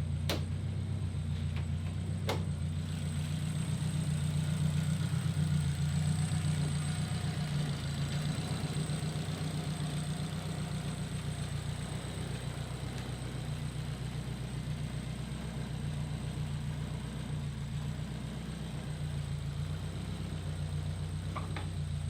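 Race car engine idling steadily, with two sharp clicks in the first few seconds.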